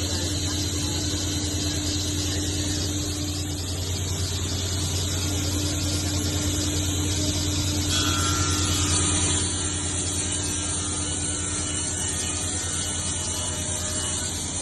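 Table saw fitted with a Yamashin King Tiger circular saw blade running with a steady motor hum while cutting wood, growing louder and changing tone about eight seconds in.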